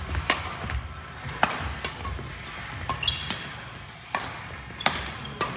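A ball being struck and bouncing in play: about eight sharp, irregularly spaced thuds.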